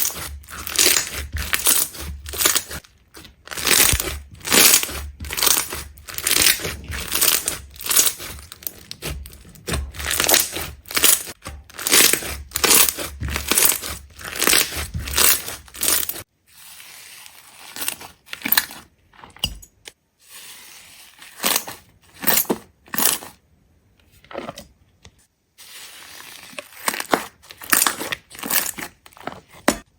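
Rapid series of crisp crunching strokes, two or three a second, over a low hum. About halfway through it changes to a quieter stretch with fewer, sparser crunches.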